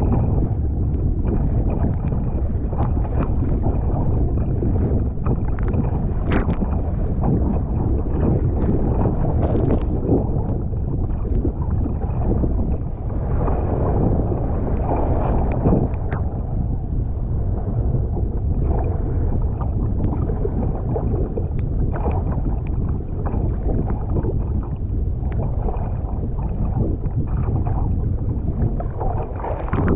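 Water rushing and splashing around a kayak in surf, over a steady low rumble of wind on the microphone, with frequent short splashes.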